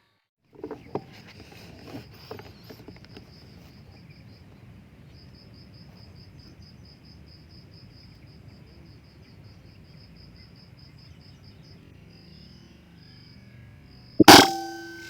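Insects chirping steadily in high pulses, about five or six a second, over a low outdoor noise bed, with a few light clicks and knocks near the start. Near the end comes a single sharp, loud crack: an air rifle shot.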